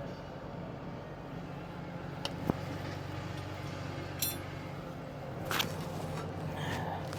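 A steady low engine hum runs throughout, with a few sharp metallic clinks and knocks of hand tools on truck brake parts, one of them ringing briefly about four seconds in.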